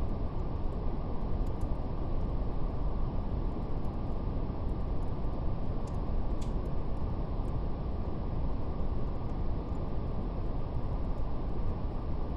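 Steady, deep brown noise with no change in level, with faint, scattered crackles of a fire ticking over it; one crackle about six and a half seconds in stands out a little more.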